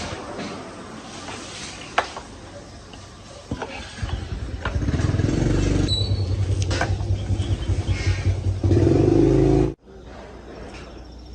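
Stihl chainsaw's two-stroke engine starting up and running with a rapid low putter, then revving louder near the end before the sound cuts off abruptly. A few knocks and handling clicks come before it starts.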